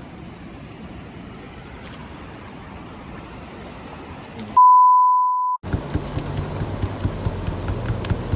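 A steady, high insect trill, typical of crickets at night, runs over a low hiss. About four and a half seconds in, a loud, pure electronic beep about a second long cuts in, with dead silence around it like an edited-in censor beep. After it comes a crackling campfire: scattered sharp pops over a low hum, with the insect trill again.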